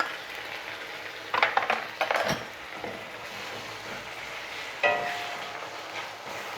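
Garlic, ginger and green chili pastes sizzling in hot mustard oil in a pan, stirred with a metal spatula that scrapes and clatters against the pan about a second and a half in. Near the end a single ringing metal clink.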